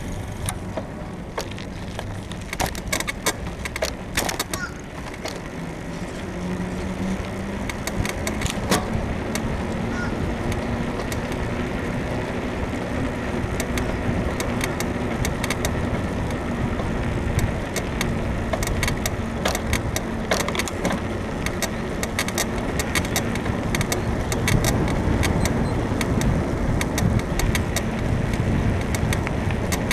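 Bicycle frame creaking and clicking irregularly while being ridden, typical of a worn suspension bushing in the frame, over steady rushing wind and road noise. A low steady hum joins about six seconds in.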